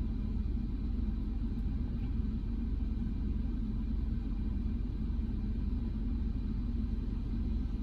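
Steady low rumble of a PDQ Tandem Surfline touchless car wash running its rinse with an empty bay, a malfunction in which the machine acts as if a car is sitting there.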